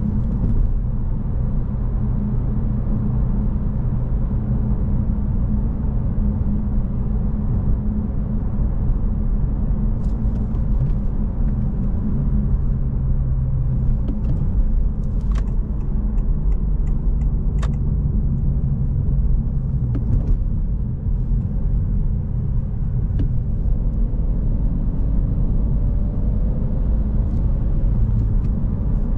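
Stock 2025 Honda Civic Si's 1.5-litre turbocharged four-cylinder engine running steadily at low revs under road rumble, with a few brief sharp clicks about a third to two-thirds of the way in.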